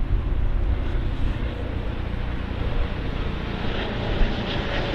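A train passing by, giving a steady running noise with a strong low rumble.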